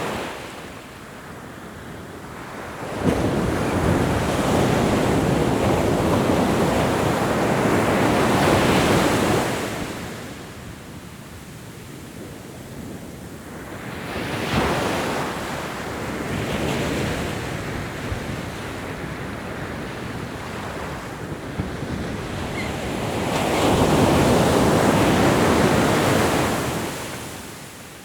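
Ocean waves breaking on a shore: three surges of surf, the first breaking suddenly about three seconds in and the loudest, with quieter wash between them, and wind on the microphone.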